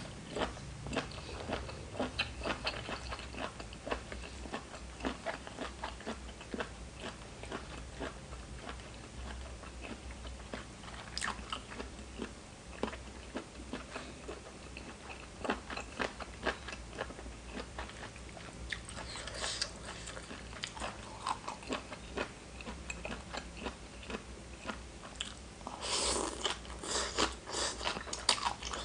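Close-miked eating: a person chewing and crunching mouthfuls of spicy seafood papaya salad (tam pa thale) with crisp raw vegetables, many small irregular crunches and wet mouth clicks. The crunching gets louder in a short spell about two-thirds through and again near the end.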